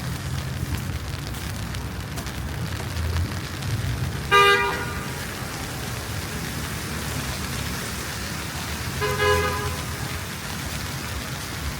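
A car horn honks twice, two short toots about five seconds apart, the first louder, over the steady low rumble of street traffic.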